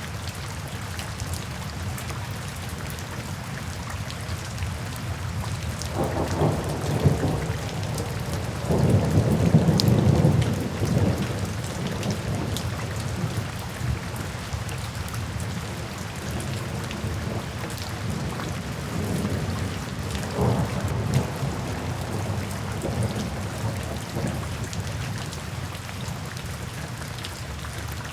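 Steady rain falling, with rolls of thunder. The loudest roll comes about ten seconds in, and a weaker one about twenty seconds in.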